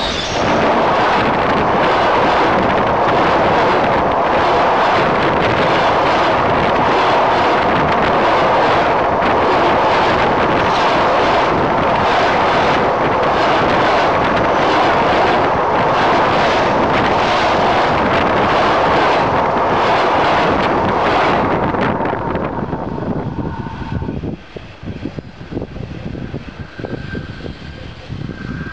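A Russian electric train rolling directly over the rails above: a loud, continuous rush of steel wheels on rail with rapid clattering. About 22 to 24 seconds in it falls away sharply to a much quieter, uneven rumble.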